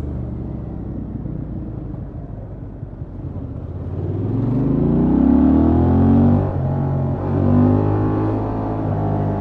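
Honda XL750 Transalp's 755 cc parallel-twin engine on its stock exhaust, heard from the rider's seat. It runs steadily at low revs, then picks up and pulls away with rising revs. It drops back twice in quick succession, as at upshifts, before settling to a steady cruise.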